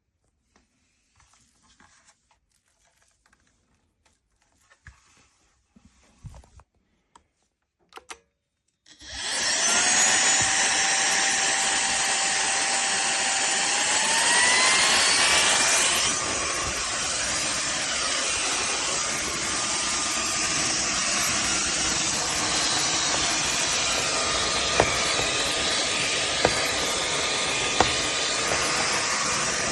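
Cordless stick vacuum cleaner's motor switched on after a few faint handling clicks, starting about nine seconds in with a rising whine. The whine steps up in pitch a few seconds later, then it runs steadily, with a few sharp ticks near the end.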